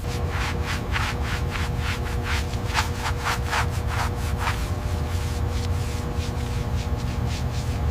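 Repeated back-and-forth rubbing strokes on a surface, like hand sanding or scrubbing, about three a second. They are strongest in the first half and grow fainter later, over a steady low hum.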